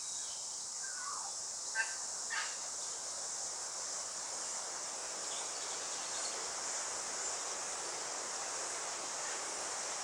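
Native forest ambience: a steady hiss of wind through the tree canopy that swells a little in the second half, with a few brief bird chirps in the first couple of seconds.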